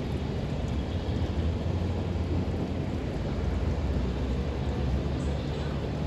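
Thunderstorm: steady rain with wind and a continuous low rumble, with no sharp thunder crack.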